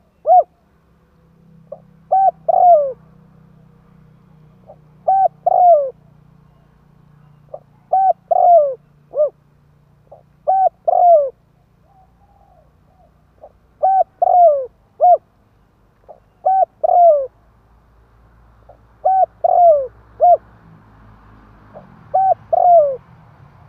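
Spotted dove cooing its multi-note phrase over and over, repeated about every three seconds. It is the kind of call played as a lure to draw in wild spotted doves.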